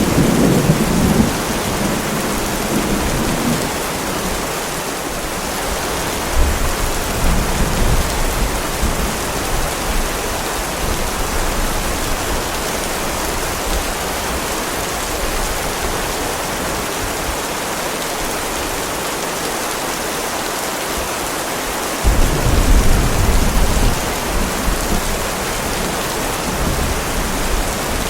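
Heavy rain falling steadily, with thunder rumbling: once at the start, again about six seconds in, and a sudden louder roll about twenty-two seconds in.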